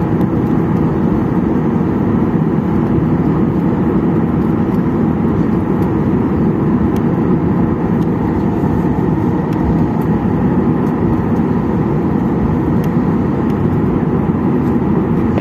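Steady cabin noise inside a Boeing 737-800 with its CFM56-7B engines running: an even, low rumble that holds level with no sudden changes.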